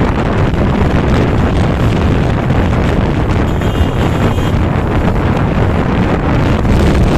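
Wind buffeting the microphone of a moving bike in a steady, loud low rumble, with traffic noise underneath.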